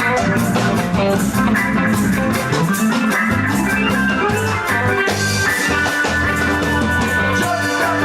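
Instrumental band music: guitar over bass and a drum kit keeping a steady beat.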